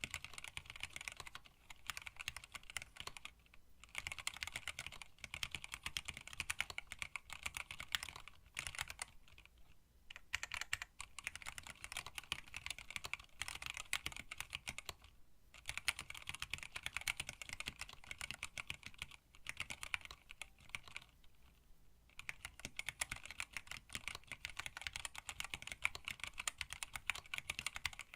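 Typing on a hand-wired split mechanical keyboard with Tealio linear switches and PBT keycaps in an acrylic case: fast, steady key clacks in runs, broken by short pauses several times.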